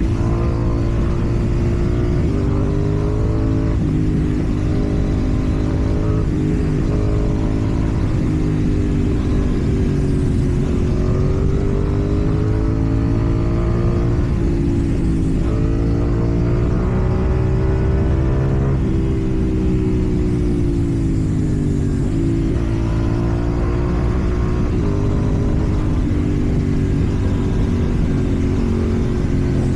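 KTM Duke 790 parallel-twin engine through a slip-on exhaust while riding, its pitch rising and falling with repeated throttle changes and shifts, over steady road and wind rumble.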